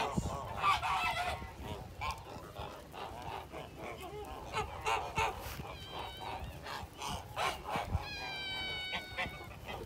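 Geese honking and calling, many short overlapping calls, with one held, steady-pitched call about eight seconds in.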